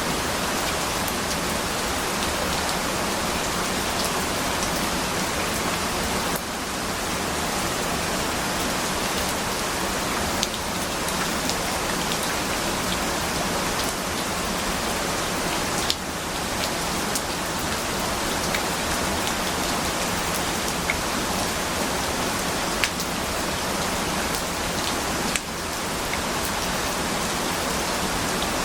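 Steady, dense rainfall, an even hiss with scattered individual drops ticking, dipping briefly in level about every nine to ten seconds.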